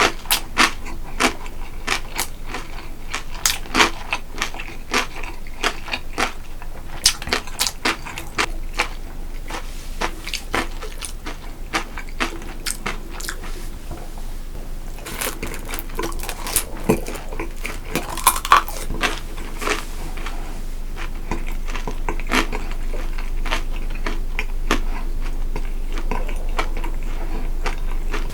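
Close-up eating sounds: a person chewing and biting, with many sharp clicks and crackles, coming thickly at first and more sparsely in the second half.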